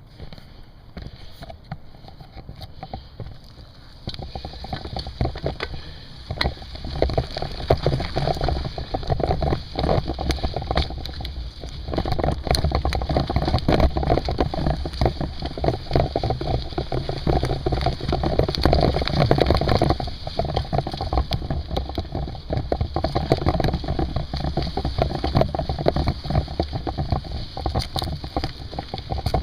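Mountain bike rolling over a rough trail: a steady low rumble of tyre and riding noise with dense rattles and knocks. It grows louder about four seconds in and again around twelve seconds.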